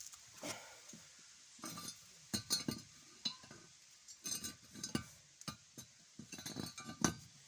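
Metal tools and a small electric motor clinking and knocking against each other as they are handled and set in place, in irregular clusters of short sharp clicks with a little ringing.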